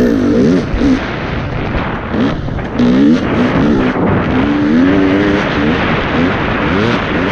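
Off-road dirt bike engine revving up and down through the throttle and gears under a constant rush of wind and track noise, heard from a helmet-mounted camera, with a few knocks from the bike over rough ground.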